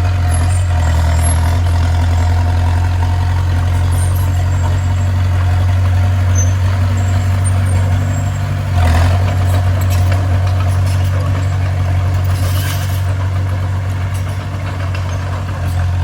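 Bulldozer's diesel engine running steadily with a deep drone, with a single knock about nine seconds in and a brief hiss a few seconds later.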